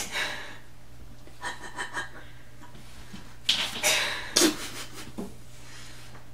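A coyote sniffing and panting at close range in short noisy bursts, the loudest a cluster about three and a half to four and a half seconds in, as she investigates the gap under a door.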